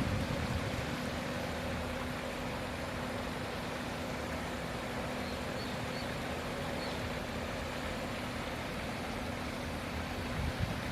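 Steady outdoor background noise, a hiss and rumble with a faint low steady hum running through it.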